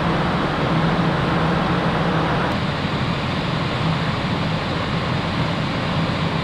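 Steady rushing noise with a constant low hum from the car ferry Ishikari under way.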